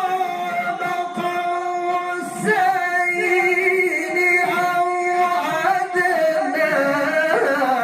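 Male Quran reciter (qari) chanting in the melodic tilawah style, holding long ornamented notes, with a short break and change of pitch about two and a half seconds in.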